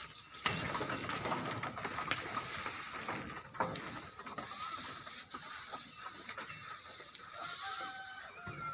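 Livestock shed noise: continuous rattling and clattering with scattered clicks from about half a second in, and a few short animal calls near the end.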